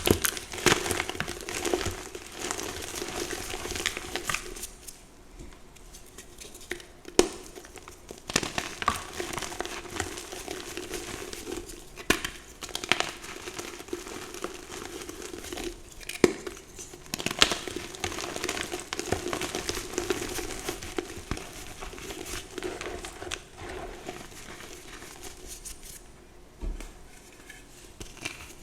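Blocks of reformed gym chalk being crushed and crumbled by hand: a steady dry crackling with sharp snaps every few seconds.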